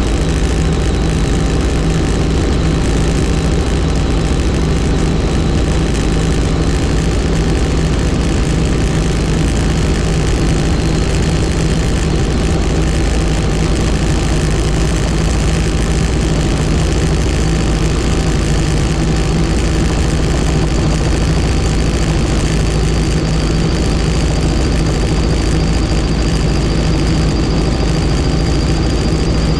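Helicopter in flight: steady rotor and turbine engine noise with a low, even drone. A thin high whine runs over it and rises slightly in pitch near the end.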